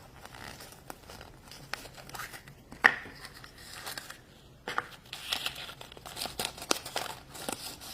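Foil wrapper of a chocolate surprise egg crinkling and tearing as it is unwrapped by hand, a run of small crackles with a sharp snap about three seconds in, busier in the second half.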